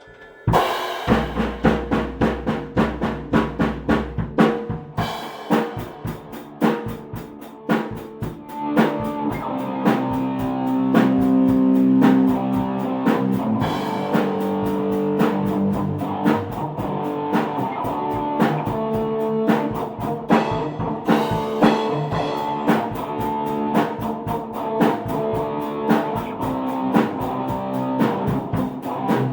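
A rock band playing in rehearsal: drum kit and guitar, with bass drum hits. It starts suddenly with loud drum hits, then fills out into steady strummed chords over the beat.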